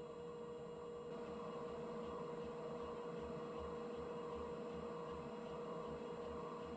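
Metal lathe running, a steady motor hum with a high whine, and a low pulsing about three times a second that starts about a second in.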